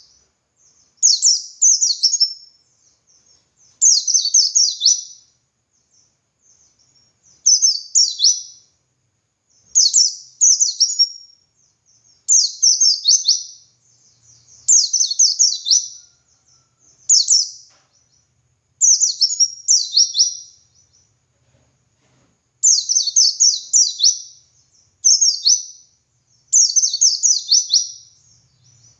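Pleci (white-eye) singing its wild-type ngalas song: repeated phrases of rapid, high-pitched twittering notes, each phrase about a second long and separated by short pauses.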